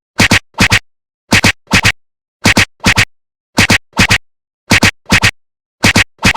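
Train wheels clacking over rail joints: evenly spaced pairs of clacks, the two in each pair about half a second apart, the pairs coming a little more than once a second, with complete silence in between.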